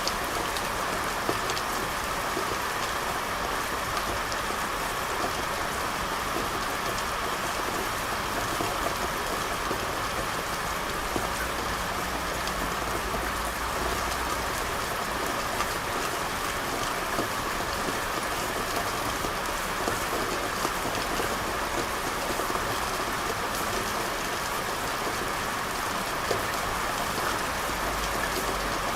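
Steady rain falling on a street, with scattered louder drops striking close by.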